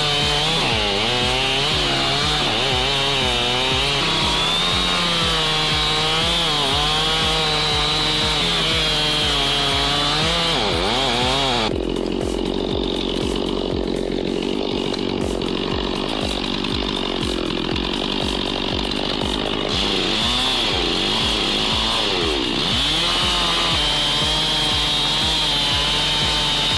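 Two-stroke Stihl chainsaws, an MS 661 and an MS 500i, running at full throttle and cutting into a log; the engine note wavers up and down as the chains load up in the wood. The sound changes from about 12 seconds in, then returns to its earlier character about 20 seconds in.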